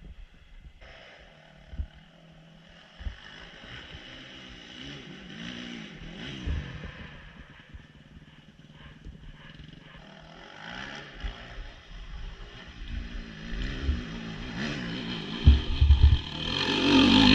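Off-road dirt bike engine revving up and down, faint at first and growing louder over the last few seconds.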